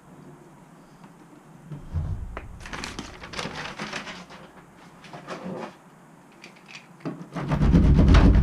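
Rustling and crinkling as a sheet of butyl sound-deadening mat is handled and its backing paper worked, in irregular spurts. About seven seconds in, a much louder low rumble with a fast rattle starts and keeps going.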